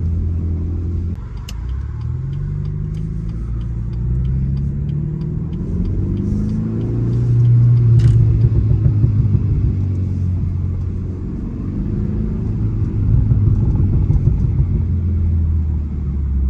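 Stage 1-tuned BMW 330i's 2.0-litre turbocharged four-cylinder heard from inside the cabin, its pitch rising in a few steps as the car accelerates, then settling into a steady run. A string of short sharp clicks rides over it in the first half, the loudest about eight seconds in.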